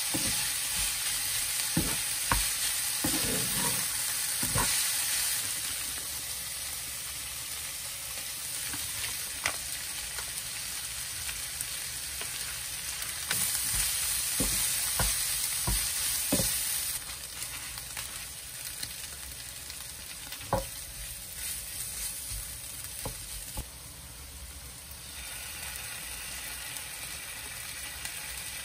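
Minced meat and diced carrot sizzling in a nonstick wok while a spatula stirs and scrapes through it, with scattered sharp knocks of the spatula against the pan. The sizzle comes in louder spells at the start and again about halfway through.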